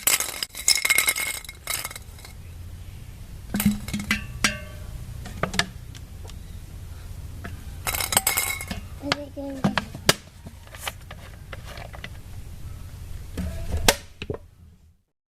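Motorcycle engine running steadily, with loud metallic clinking and rattling over it in bursts, heaviest at the start and about eight seconds in. Everything cuts off shortly before the end.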